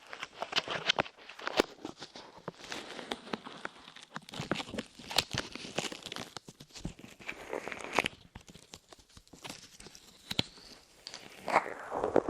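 Light modelling clay pressed onto and pulled off a microphone's ears, giving sticky crackling with many quick clicks and taps.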